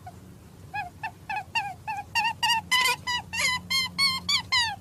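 Rabbit squeaking: a quick run of short high-pitched squeaks, about three or four a second, growing louder.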